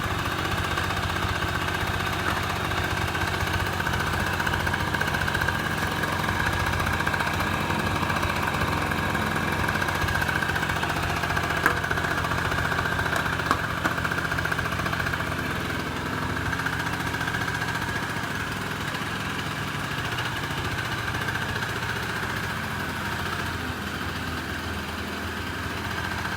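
Honda Lead SS50 (AF10) scooter's small two-stroke engine idling steadily, with two short clicks near the middle and a slight drop in level in the second half.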